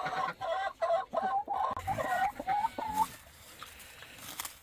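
Chickens clucking: a quick run of short calls for about three seconds, then dying away.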